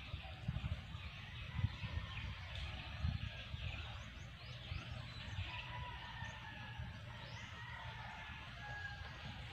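Rural outdoor ambience: birds calling with a few thin, held whistled notes and short rising chirps over a steady high hiss, with irregular dull low thumps from footsteps of someone walking through the vegetation.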